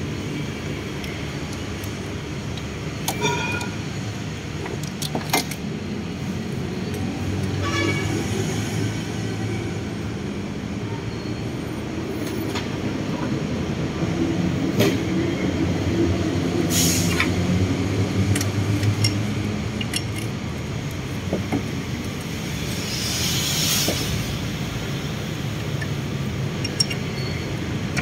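A steady low mechanical rumble, with scattered short metallic clicks and clinks every few seconds and a brief hiss about three-quarters of the way through.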